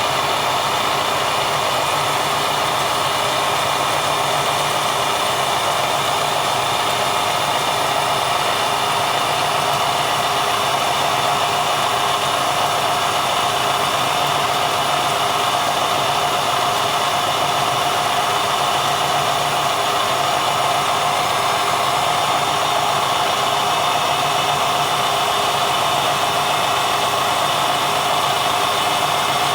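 Quill-fed drilling machine running steadily at one constant speed, drilling out a broken exhaust stud from a Honda 400EX engine, with an even motor whine.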